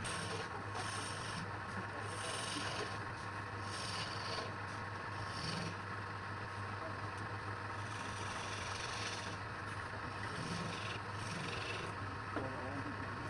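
Wood lathe running with a steady motor hum while a turning tool scrapes the spinning wood in short repeated passes, with a gap of a few seconds in the middle.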